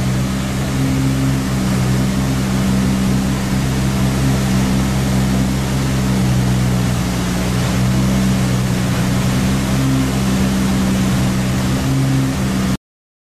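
Car engine running at a steady speed with a low, even drone that does not rise or fall, cutting off suddenly near the end.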